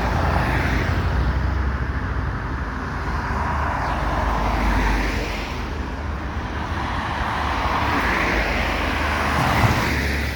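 Road traffic passing, cars swelling and fading one after another over a steady low rumble.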